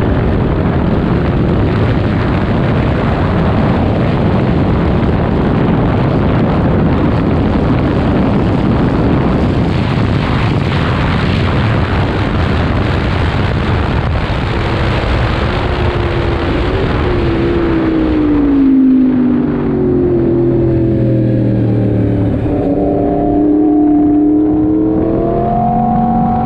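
2019 Yamaha MT-10's crossplane inline-four engine at speed, buried under heavy wind rush on the microphone. About two-thirds of the way in the rush drops away as the bike slows. The engine note then falls, wavers and climbs again near the end as the throttle is opened.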